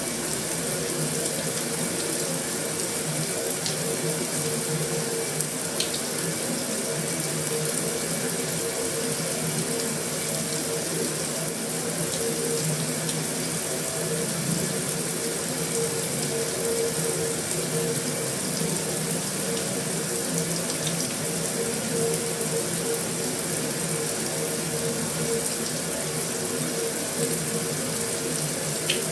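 Heavy rain falling steadily on a metal roof, an even hiss with an occasional faint tick.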